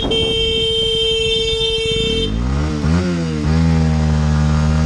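A single-tone vehicle horn held for about two seconds and cut off, then a motorcycle engine revving up, dipping once and holding at high revs.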